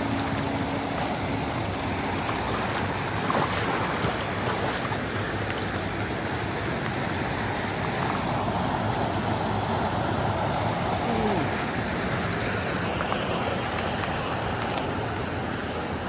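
Steady rushing of a waterfall and its stream of falling water.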